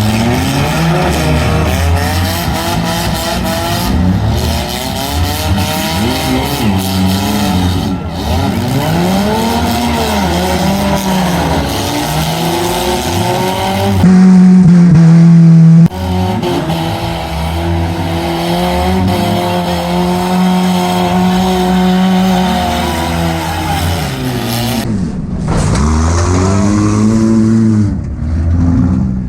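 Demolition derby car engines revving hard, rising and falling in pitch again and again, with tyres squealing. About halfway through, a very loud steady drone is held for about two seconds.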